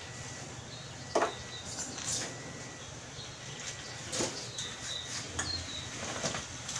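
A handful of separate sharp knocks, spaced irregularly, the loudest about a second in, over a faint steady background hum.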